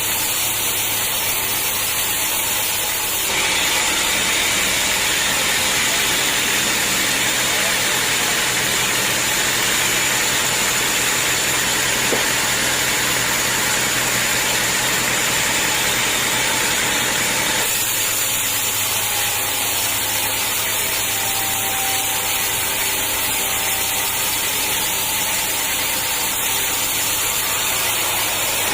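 Sawmill saw and its motor running steadily, with a louder, hissier stretch from about three seconds in to about seventeen seconds in as the blade cuts through a hard acacia log.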